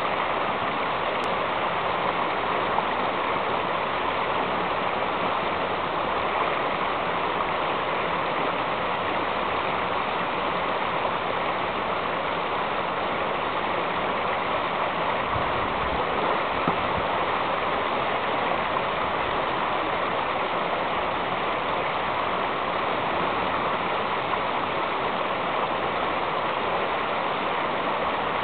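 Fast-flowing river water rushing steadily, a constant white-water noise.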